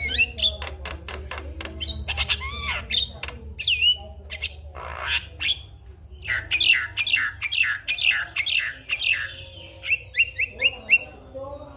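Javan myna calling: a quick, varied run of harsh squawks, sharp clicks and short whistled notes, many of them sliding up or down in pitch, growing denser in the second half.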